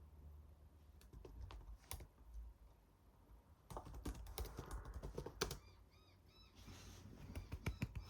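Typing on a computer keyboard in short bursts of key clicks, with a few clicks early, a quick run in the middle and more near the end.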